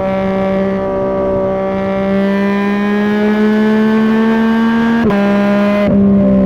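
Yamaha MT-09's three-cylinder engine through a Dominator GP3 aftermarket exhaust, pulling under acceleration with its pitch slowly rising. About five seconds in, a quick upshift drops the pitch a step and the engine pulls on.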